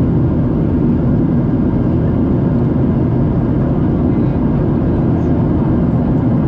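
Steady in-flight cabin noise of a Boeing 737-700 airliner: the even drone of its CFM56 engines and the rush of air along the fuselage, mostly low in pitch, with no change in level.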